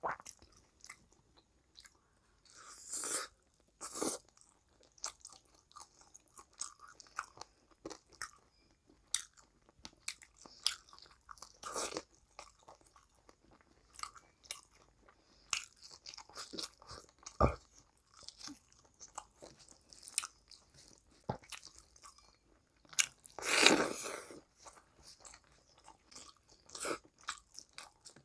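Close-miked eating of rice and curry by hand: irregular chewing with many short clicks and smacks and a few louder strokes, and one louder, longer mouth noise a few seconds before the end.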